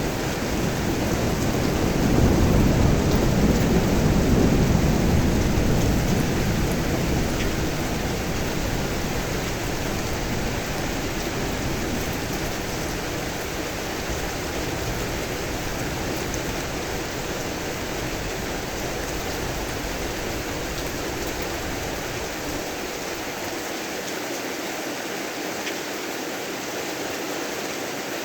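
Steady heavy rain, with thunder rumbling in low, swelling a couple of seconds in and slowly fading away over the next several seconds.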